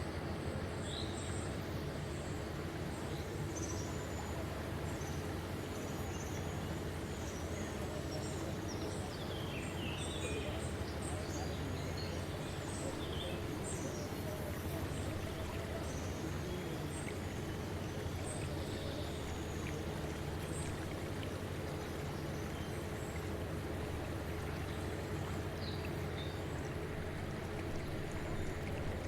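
Outdoor ambience: small birds chirping in short, scattered calls over a steady low background noise.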